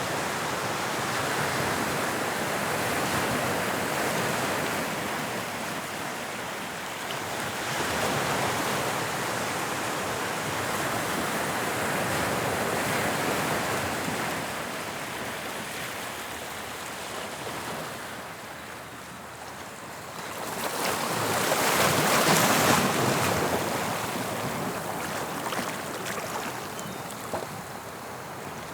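Sea waves breaking and washing up the shore in slow swells that rise and fall every few seconds. The largest wave breaks about two-thirds of the way through and then fades away.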